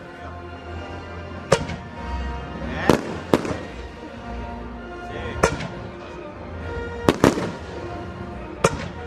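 Aerial fireworks bursting: about seven sharp bangs at uneven intervals, a couple of them close together, with background music playing throughout.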